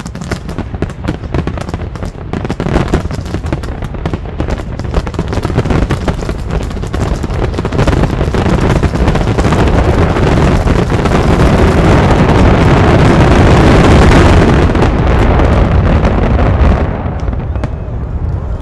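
Fireworks bursting in a dense barrage of overlapping bangs and crackles. The bursts grow louder to a peak about two-thirds of the way through, then fall away near the end.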